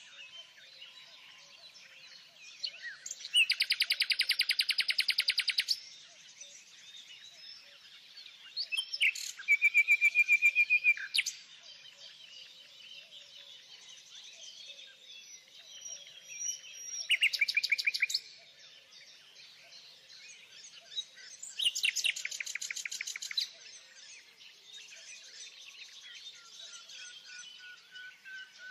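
Birdsong: a loud, rapid trill about two seconds long comes four times, several seconds apart, over quieter chirping from other birds.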